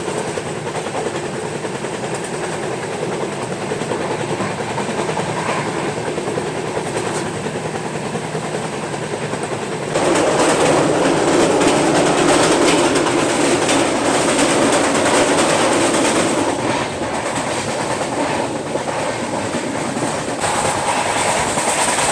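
Passenger train's coaches running at speed on the track: a steady rumble of wheels on rails with rapid clicks, which jumps suddenly louder and busier about ten seconds in.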